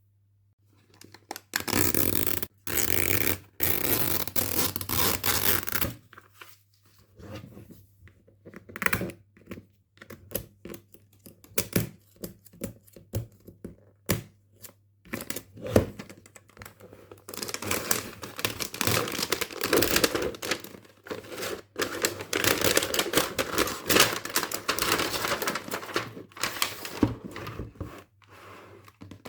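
Toy packaging being torn and handled: long stretches of tearing and crinkling, with scrapes, taps and small knocks between them.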